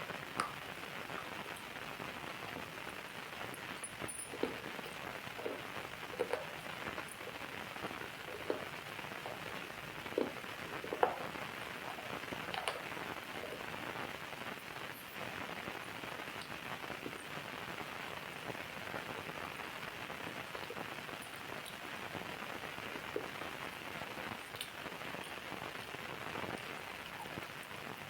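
Rain falling steadily, an even hiss with scattered louder single drops striking a surface.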